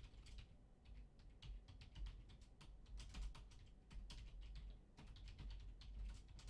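Typing on a computer keyboard: quick, irregular key clicks in several short runs, over a steady low hum.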